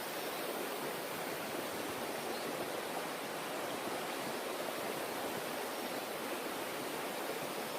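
Steady rush of a forest stream's flowing water, even and unbroken throughout.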